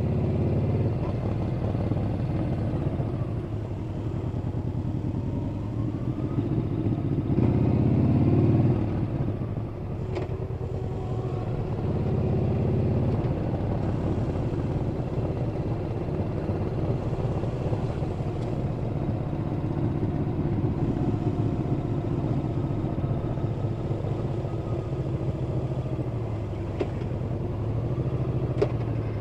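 Yamaha Bolt's air-cooled V-twin engine running steadily under way. About seven seconds in it revs up and gets louder, then drops away briefly before settling back to a steady cruise.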